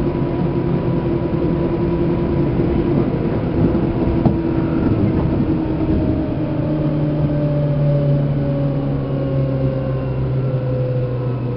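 Seibu New 2000 series electric train running, heard inside motor car MoHa 2291: traction motor and gear whine over steady wheel-and-rail rumble. The tones slide gradually lower in the second half as the train slows, and a single click comes about four seconds in.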